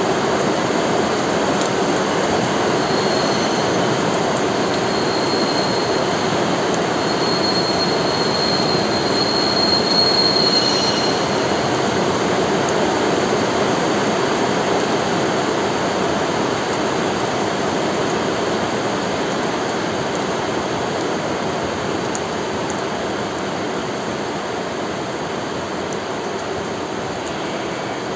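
Heavy rain pouring down in a steady, even hiss that eases slightly near the end.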